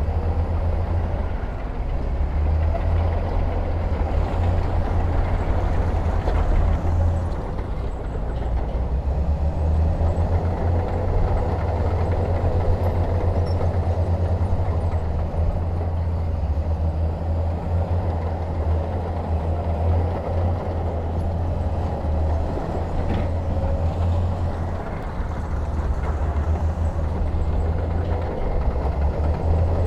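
Heavy diesel earthmoving machinery running steadily under load, a continuous low engine rumble with no breaks.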